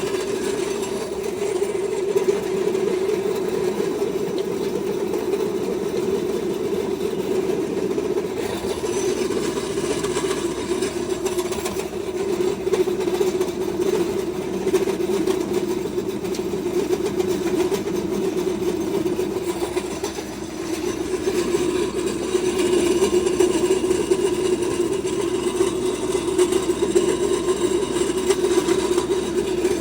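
Feed pellet mill running steadily with a constant mechanical hum, dipping briefly about 20 seconds in and then running slightly louder.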